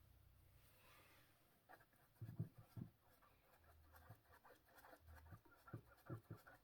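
Faint, irregular scratching and light tapping strokes of a painting tool working paint on canvas, starting about two seconds in.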